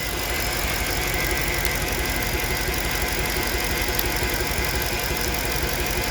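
Mercedes-Benz SUV's eight-cylinder engine idling steadily and unevenly with a misfire on cylinder 7, which shakes the engine. The mechanics suspect the cause could be mechanical, such as low compression.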